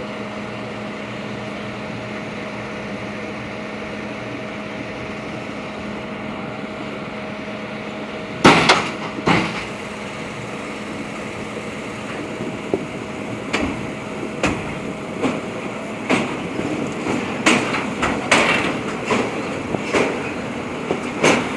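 Train on an old steel railway bridge: a steady drone, then two heavy metallic clanks about eight seconds in, followed by sharp clanks of wheels over rail joints that come faster and faster through the second half.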